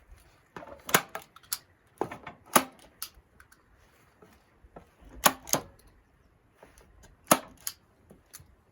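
Sharp clicks and knocks in small clusters of two or three, with pauses between: hard objects being handled or put in place, not a saw running.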